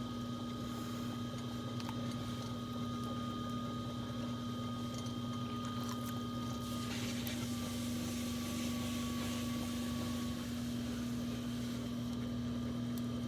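Electric potter's wheel running with a steady motor hum while a lump of clay spins on the wheel head for centering.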